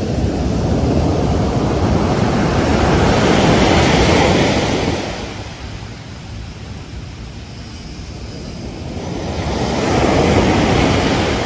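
Ocean surf: waves breaking and washing up the beach in a steady rush. It swells to a peak about four seconds in, eases off, then swells again near the end.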